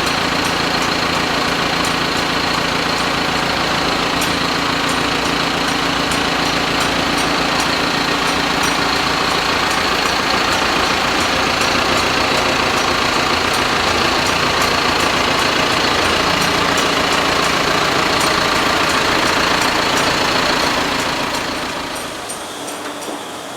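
An engine idling steadily, with a faint regular ticking over it; the sound drops away near the end.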